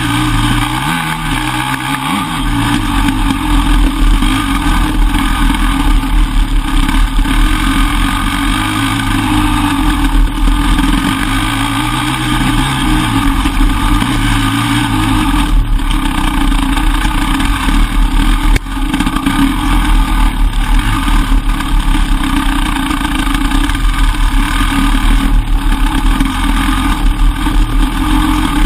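Enduro motorcycle engine running hard and continuously, its pitch rising and falling with the throttle as the bike rides a rough trail.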